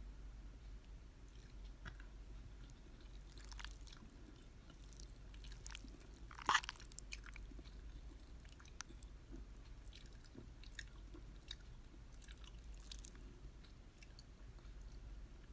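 A person eating cheesy macaroni pasta close to the microphone: soft, wet chewing and small mouth clicks, with one sharper click about six and a half seconds in.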